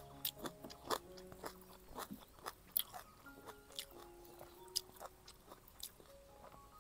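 Close-miked eating sounds: chewing with sharp, wet mouth clicks and smacks, a few a second, as a person eats snail curry with rice by hand. Soft background music with held notes plays underneath.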